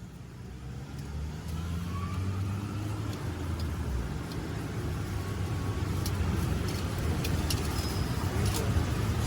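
Road traffic: a motor vehicle's engine running and growing louder, its pitch rising briefly about two seconds in, with scattered sharp clicks and taps in the second half.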